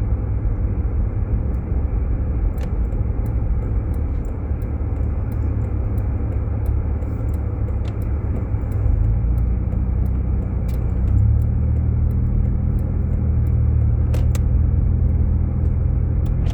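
Steady low road and engine rumble of a Jeep Grand Cherokee driving, heard from inside the cabin, with scattered faint ticks over it. The engine note rises a little about eleven seconds in.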